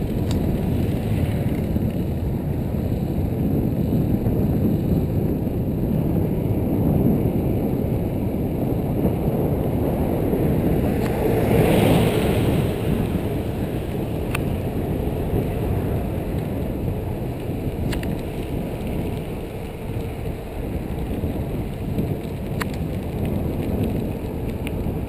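Wind rushing over the helmet- or bike-mounted camera's microphone and rumble from a mountain bike riding along, swelling briefly a little past halfway, with a few sharp clicks in the second half.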